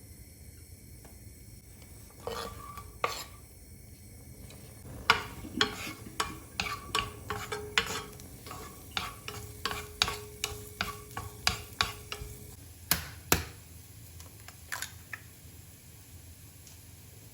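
A kitchen utensil stirring in a bowl and clinking against its side about three times a second, each strike with a short ringing tone. A couple of harder knocks come near the end.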